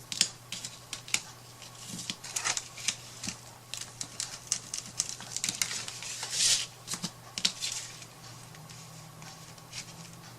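Irregular small clicks and taps with a brief rustle about six seconds in, from craft materials and tools being handled on a work table. A steady low hum runs underneath.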